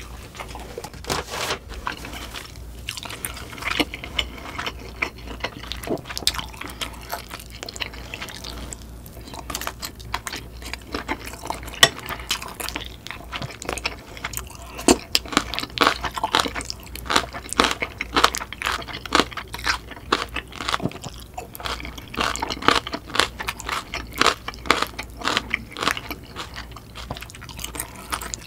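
A person eating: biting into grilled sausage and chewing curry and rice, a dense run of short mouth clicks and chewing sounds, busier and louder in the second half.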